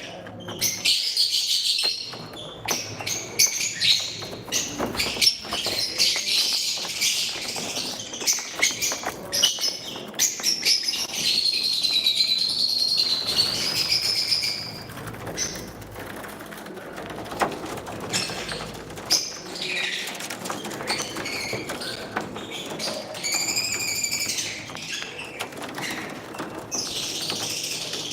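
Pet lovebirds chattering, a steady stream of high chirps and shrill calls mixed with frequent short clicks.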